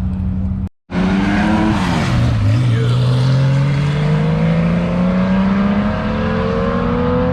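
Car engine pulling away and accelerating. After a brief cut in the sound about a second in, its note dips and then rises steadily through a gear, settling at a higher pitch near the end.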